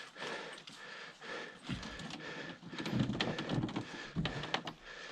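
Irregular knocks and low thumps, several close together in the middle, over a faint steady high-pitched hum.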